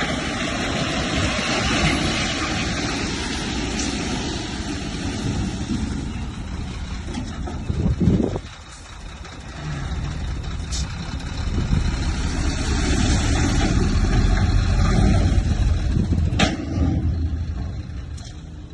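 Heavy diesel earth-moving machinery running under load, a deep engine rumble with a hiss over it. The sound drops off sharply about halfway through, then builds back up.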